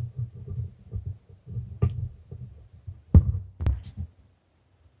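Coloured pencil being scribbled back and forth on paper to shade a wheel black: quick, rubbing strokes carried as low thuds through the table, with a few sharp taps about two and three seconds in, stopping about four seconds in.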